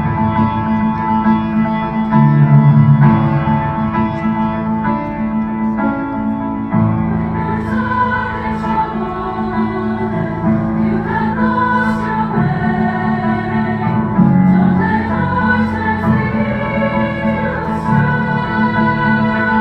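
A choir singing with piano accompaniment: held chords at first, with the moving vocal lines coming forward about seven seconds in.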